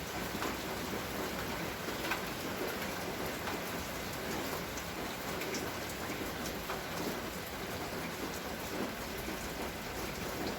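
Steady rain falling, with many small drop hits ticking through the hiss.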